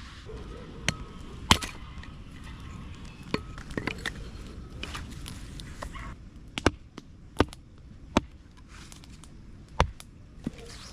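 Wood being chopped: about eight sharp knocks at irregular intervals.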